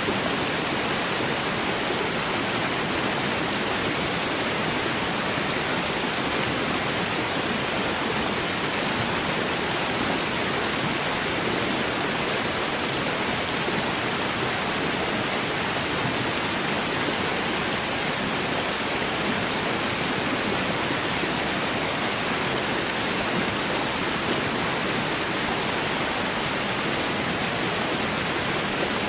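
Babbling creek: a steady rush of running water.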